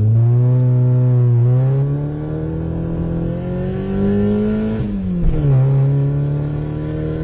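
Car engine accelerating, its pitch climbing steadily, then dropping sharply about five seconds in as it shifts gear, and running on at a steady pitch. It starts and stops abruptly, like a dropped-in sound effect.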